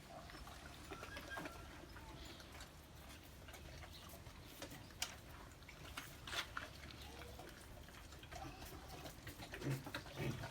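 Cane Corso dogs at feeding time: scattered faint clicks, knocks and rustles, several a second in places, with a few louder knocks about five and six seconds in.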